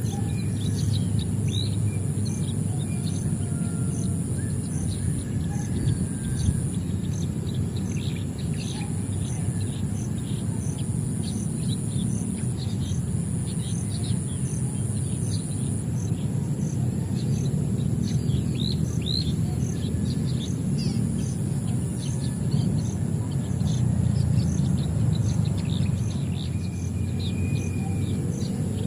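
Many small birds chirping, short chirps coming thick and fast throughout, over a steady low rumble. A steady high whine with a regular tick runs under it.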